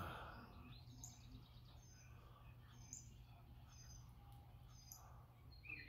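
Faint bird chirps: short, high notes about once a second over a steady low hum.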